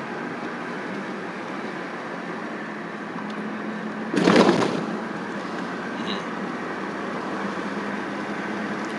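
Steady running noise with a constant low hum, and a brief loud rush about four seconds in.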